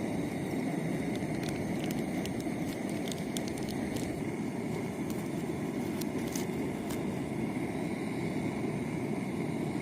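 Small 25-gram backpacking gas canister burner running steadily, an even rushing noise, while it heats water for tea. Faint scattered ticks sound over it.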